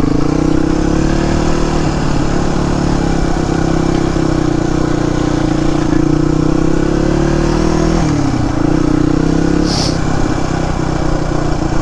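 Suzuki DR250S single-cylinder four-stroke engine running steadily through an aftermarket Dominator R exhaust, easing off in pitch about eight seconds in and picking up again.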